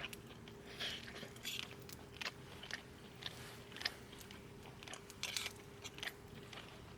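A person chewing a mouthful of oden close to the microphone: a string of irregular small bites and smacks.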